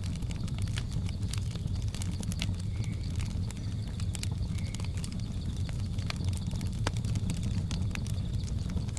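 Wood fire crackling, with irregular sharp pops and snaps over a steady low rumble. Two short high chirps come about three and four and a half seconds in.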